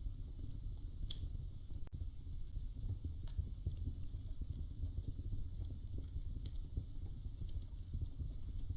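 Wood fire crackling in a fireplace: a steady low rumble of burning with irregular small ticks and a few sharper pops.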